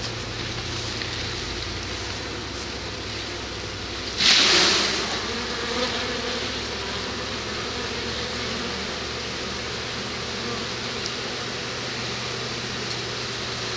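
A honey bee swarm buzzing steadily as it settles into a new hive box, the workers starting to fan. About four seconds in, a brief loud rush of noise rises over the buzzing and fades within a second.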